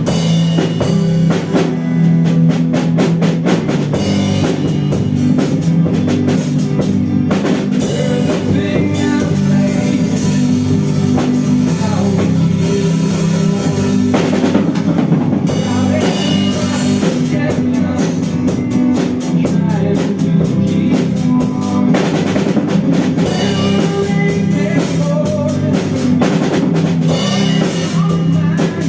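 A rock band playing, with a drum kit keeping a steady beat under sustained guitar chords.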